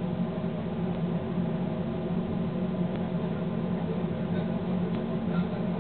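Passenger train running steadily at speed, heard inside the driver's cab: a continuous low drone of the locomotive's running gear with rail noise over it.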